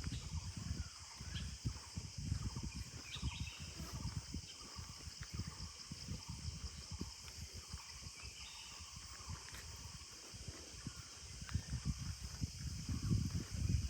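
Forest ambience: a steady high-pitched insect drone with scattered faint bird chirps, over an uneven low rumble and thudding.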